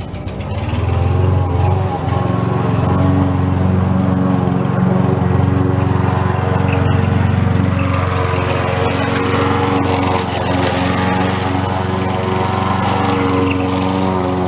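Petrol lawn mower engine coming up to speed in the first second, then running steadily at full throttle.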